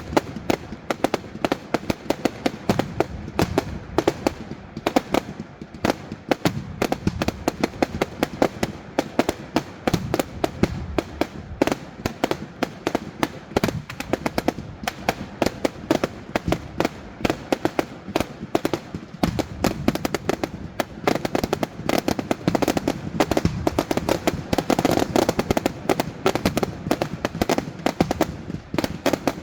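Fireworks going off in a dense, continuous barrage of bangs and crackling pops, many per second.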